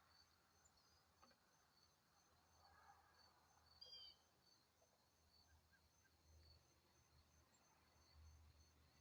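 Faint outdoor ambience: a single short bird call about four seconds in, over a faint high chirping that repeats evenly a few times a second.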